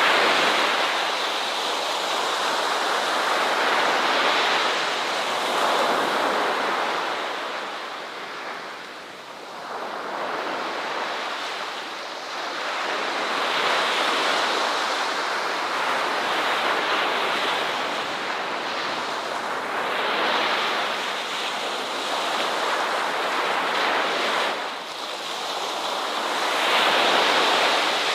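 Ocean waves breaking and washing on a shore: a continuous rush of surf that swells and eases every few seconds.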